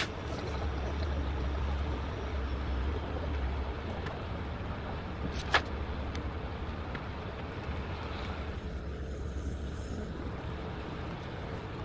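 Heavy truck engine running steadily with a low hum, and a single sharp click about five and a half seconds in.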